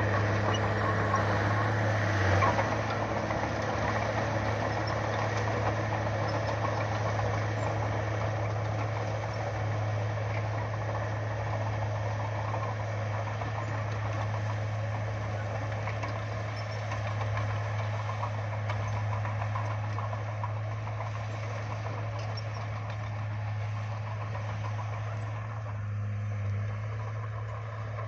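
Bulldozer's diesel engine running steadily with a low drone, briefly louder about two seconds in.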